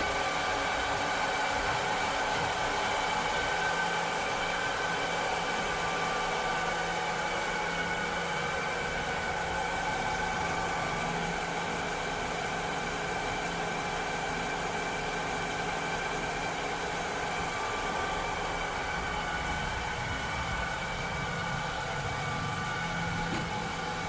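Cleaning robot's motor running steadily: an even hiss with several steady whining tones layered over it.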